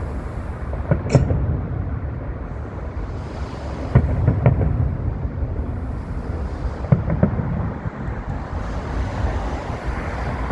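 Fireworks display at a distance: several sharp shell bursts, the loudest around four seconds in and again near seven seconds, over a continuous low rumble of booms.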